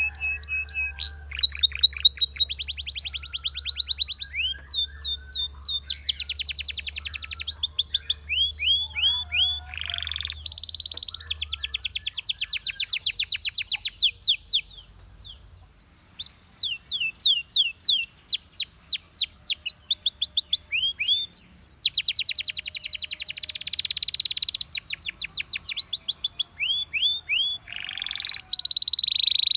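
Belgian canary singing: a long song made of runs of rapid, evenly repeated high notes, each run lasting a second or a few seconds before switching to a new pitch. The song breaks off for about a second roughly halfway through.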